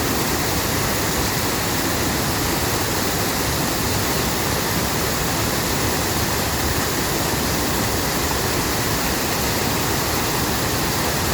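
Water of a mountain valley stream rushing, a steady, unbroken noise.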